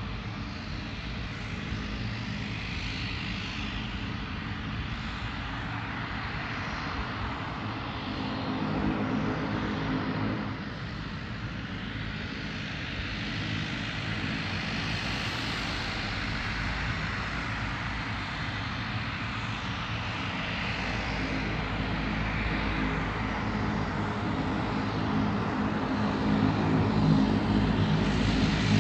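Engines of a QantasLink turboprop airliner running, a steady propeller drone over jet-like hiss, growing louder near the end.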